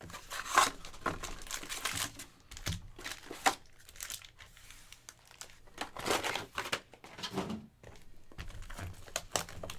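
Plastic packaging crinkling and rustling as it is handled, in irregular bursts with a few sharper crackles, the loudest about half a second in and again near the middle.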